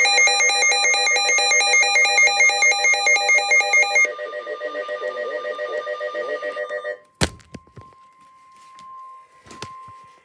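Emergency weather-radio alert tones: loud, rapidly alternating electronic data tones for about four seconds, then a softer warbling run of the same tones until about seven seconds in. After a sharp click, a faint steady alert tone is left, marking the start of a new severe thunderstorm warning.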